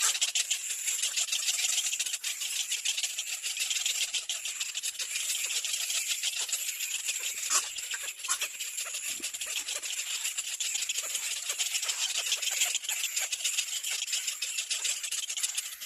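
A steady, high-pitched animal chorus of very fast rattling clicks, with a few sharper clicks about halfway through.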